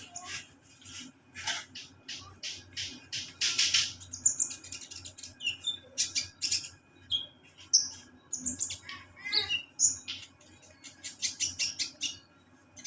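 Kolibri ninja sunbird calling: quick, irregular series of short, sharp, high-pitched chirps, with a few brief rasping notes among them.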